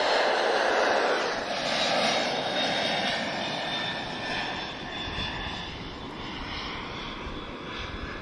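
Boeing 767 freighter's twin jet engines at takeoff thrust as it climbs away after lift-off. A loud noise with high whining tones that dip slightly in pitch, fading gradually as the aircraft recedes.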